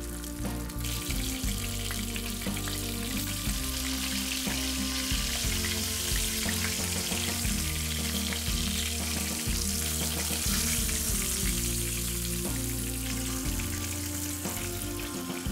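Breaded chicken drumsticks shallow-frying in hot oil in a pan: a steady, dense sizzle that grows stronger about a second in. Soft background music plays underneath.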